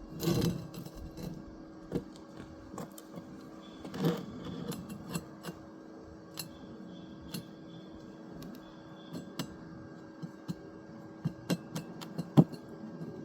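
Scattered knocks and clicks from handling materials and tools while building a pot stand, with a heavier thump at the start and another about four seconds in, and a quick run of sharp knocks near the end, over a faint steady hum.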